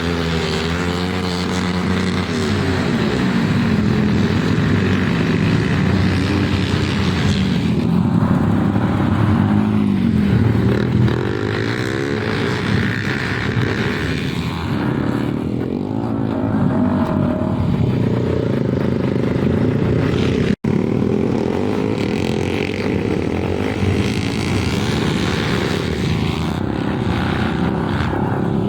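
Several flat track racing motorcycles running together, their engine pitches rising and falling as the bikes pass in repeated swells. The sound cuts out for an instant about twenty seconds in.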